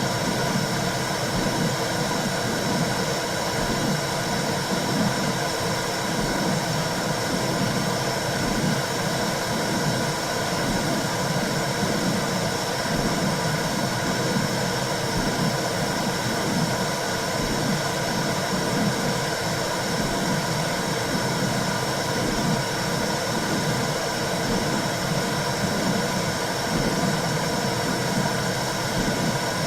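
Womb-sound white-noise track for calming a baby: a steady whooshing hiss with a low, fluttering pulse beneath it.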